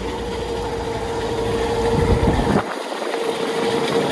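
2006 Rheem 5-ton central air conditioner condensing unit running, with a steady hum from its noisy condenser fan motor, which the owner thinks needs checking or replacing. A low rumble underneath drops away suddenly about two and a half seconds in.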